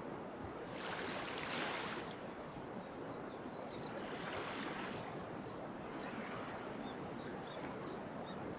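Sea waves washing on the shore, swelling twice, while a bird twitters in quick high chirps over the surf from a few seconds in.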